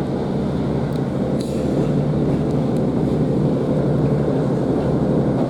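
Class 150 Sprinter diesel multiple unit under way, heard from inside the carriage: a steady low drone of its underfloor diesel engine over running noise, with a couple of light clicks about a second in.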